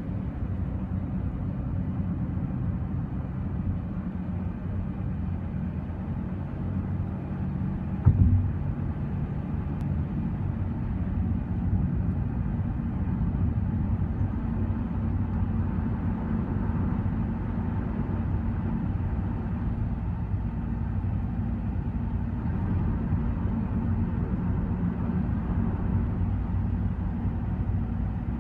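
Steady low drone of a car driving at highway speed, heard from inside the cabin: engine and tyre noise, with one brief thump about eight seconds in.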